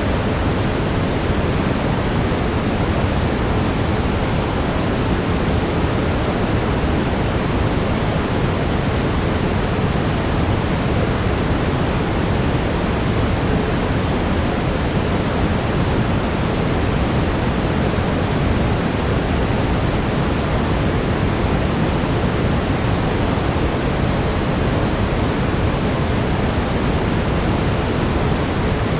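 Steady brown noise: an even, unchanging rushing hiss, heaviest in the low end.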